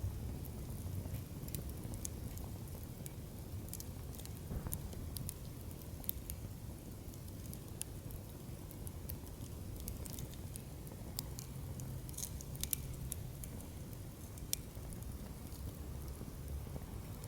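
Wood fire in a fire stand crackling and popping over a low steady rush of flames. About three-quarters of the way through, burning logs shift and collapse with a louder crack.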